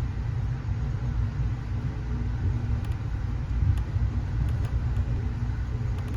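Passenger train running, heard from inside the carriage: a steady low rumble from the wheels and running gear, with a faint steady hum above it.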